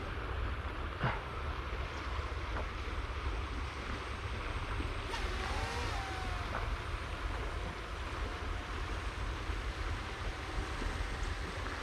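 Steady rush of river water with wind rumbling on the microphone.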